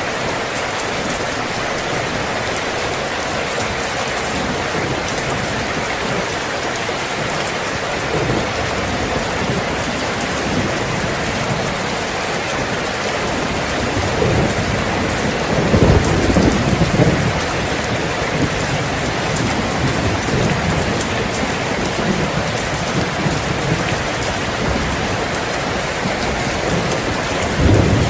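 Steady rain, with a roll of low thunder about halfway through and another starting near the end.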